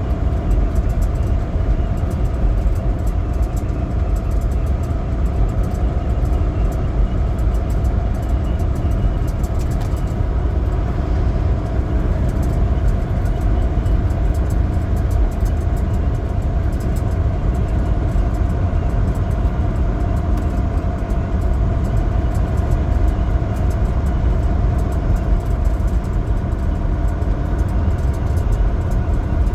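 Semi truck driving at a steady speed: a constant low rumble of diesel engine and road noise, with a few faint steady tones above it.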